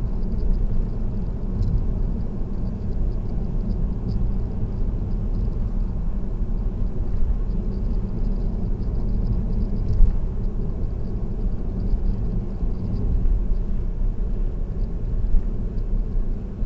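Car cruising on an expressway: a steady low rumble of road and engine noise, with faint scattered light ticks and one brief bump about ten seconds in.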